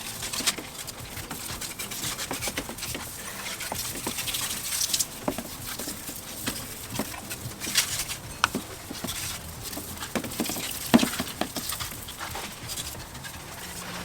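Garden hose on a mist setting spraying water over an engine bay: a steady hiss of spray with irregular ticks and patter of droplets striking the engine parts, pre-soaking the bay before degreaser.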